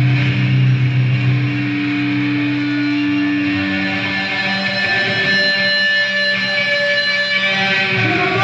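Distorted electric guitars and bass from a live grindcore band, holding notes that ring out and slowly die away. There are no drums under them.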